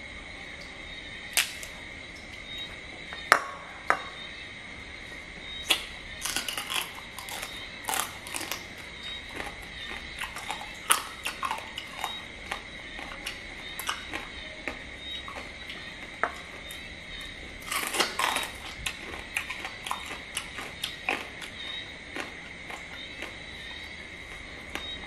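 Close-up eating of crab: irregular sharp crunches and wet clicks of chewing, in clusters, over a steady high-pitched whine.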